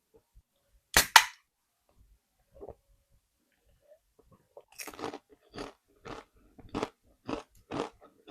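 Crunchy Doritos nacho chip bitten with two sharp, loud crunches about a second in, then chewed with rhythmic crunching about twice a second from roughly halfway through.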